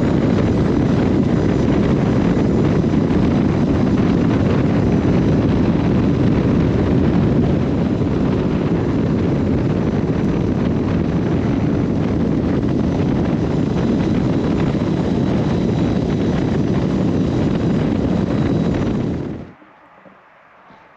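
Loud, steady wind rush buffeting the camera microphone while riding a Harley-Davidson LiveWire electric motorcycle at speed, with a faint steady high whine. It cuts off abruptly near the end.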